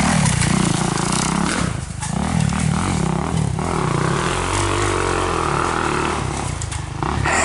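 Four-stroke dirt bike engine revving up and down, its pitch rising and falling again and again as the rider works the throttle and gears.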